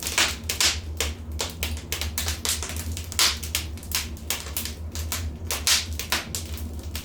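Wood fire burning in a fireplace, crackling with dense, irregular snaps and several louder pops.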